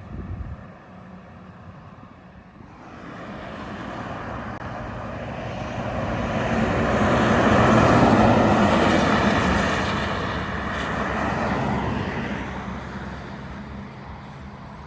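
A truck passing by on the road: engine and tyre noise swell to a peak about eight seconds in, then fade away.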